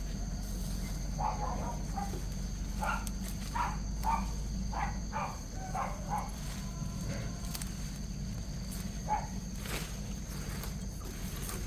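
Chickens clucking in short, scattered calls, over a steady background hum and a faint high drone.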